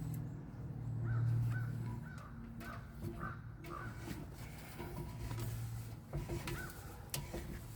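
Crows cawing in a quick run of short calls, with a second brief run near the end. A low hum sits underneath.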